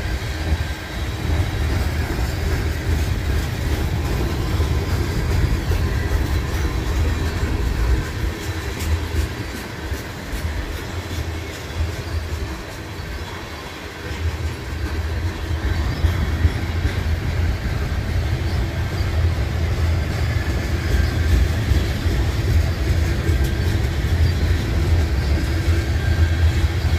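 Freight train cars (tank cars, boxcars and covered hoppers) rolling past: a steady rumble of steel wheels on the rails that dips briefly about halfway and then picks up again.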